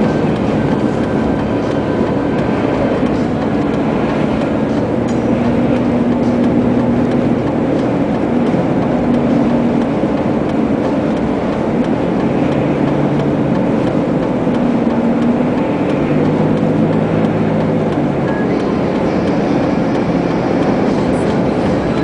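Steady drone of a car driving through a snowstorm, heard from inside the cabin. It mixes engine hum, whose pitch drifts slightly, with continuous road and wind noise.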